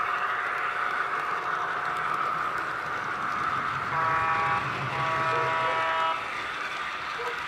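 Model F3 diesel locomotive's TCS WOW sound decoder playing a two-blast horn over a steady running sound: a short blast about four seconds in, then a longer one.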